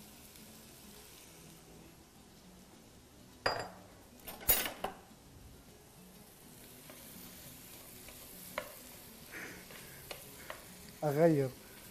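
Apple pieces cooking in butter in a pot on a gas hob, sizzling faintly while a spoon stirs them. There are two sharp kitchenware knocks, about three and a half and four and a half seconds in, and a few lighter clicks later.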